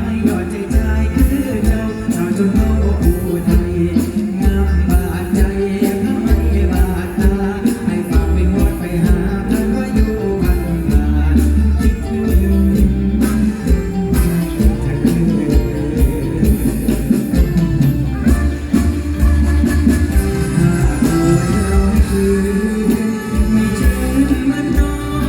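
Live mor lam band music with a singer, over a heavy, pulsing bass.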